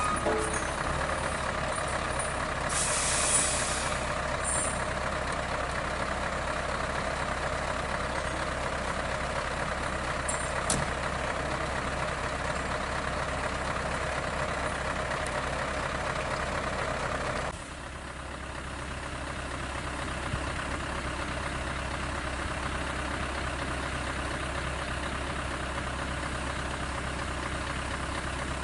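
Heavy diesel truck engine running steadily, with a short hiss of air brakes about three seconds in. About two-thirds of the way through the engine sound drops suddenly to a quieter, steady idle.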